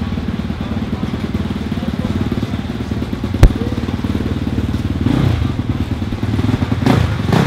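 Motocross bike engine running at idle with a rapid, even beat, and a single sharp knock about three and a half seconds in.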